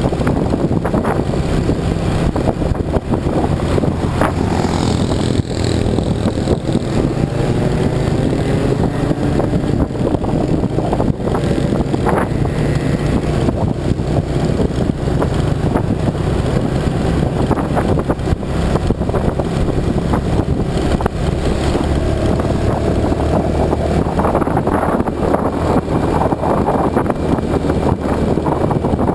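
Yamaha motorcycle engine running while being ridden along a road, a steady low hum whose pitch rises a couple of times as the bike speeds up.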